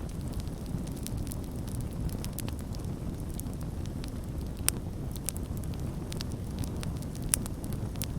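Campfire burning with a steady low rumble of flames and frequent sharp, irregular crackles and pops of the burning wood, two louder pops near the middle and near the end.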